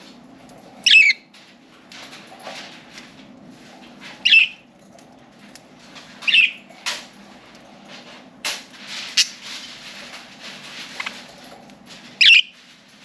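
Pet budgerigars calling: four loud, short, sharp calls a few seconds apart, with softer rustling and a few clicks between them over a low steady hum.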